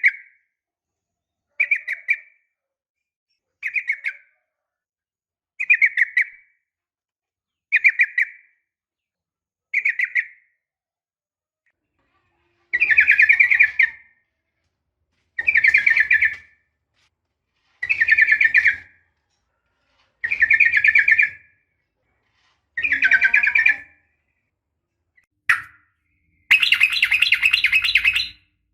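Sooty-headed bulbul (trucukan) calling: about six short chirps roughly two seconds apart, then longer warbled phrases repeated every two and a half seconds or so, with a longer phrase near the end. These are the calls of a female, used to draw a male into answering.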